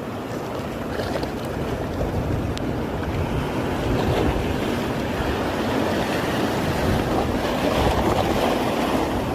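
Ocean surf washing in, with wind buffeting the microphone.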